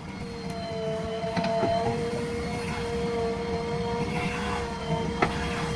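JCB earthmoving machine at work: its diesel engine runs under a steady whine, with a few sharp knocks.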